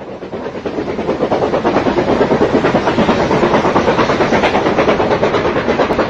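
Train running, a dense, fast clatter with hiss that fades in over the first second and then holds steady.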